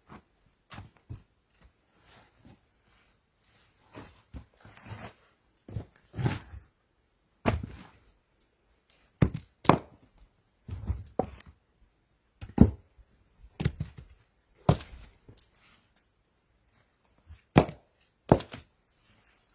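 Chopping on wood in a small room: irregular knocks and thunks, roughly one a second and some in quick pairs, with soft handling rustle between them.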